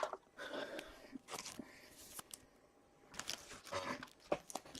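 Faint rustling, scraping and light clicks of hockey trading cards being handled and flipped through by hand, in short irregular bursts.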